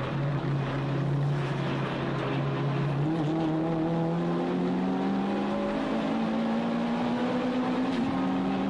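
Toyota Starlet Glanza (EP91) race car's engine heard from inside the cabin, running under load: the pitch holds steady for about three seconds, then rises steadily as the revs climb, with a short break in the pitch near the end.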